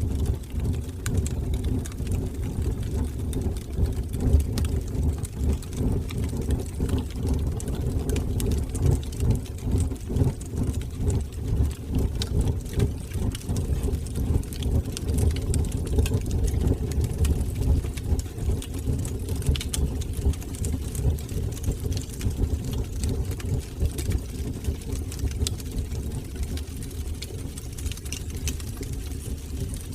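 Wood fire burning in a fireplace: a steady low rumble of the flames with frequent small crackles and pops throughout.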